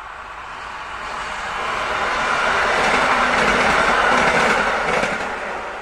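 EN57ALd electric multiple unit passing by, its running noise swelling to a peak after about three seconds and fading away near the end.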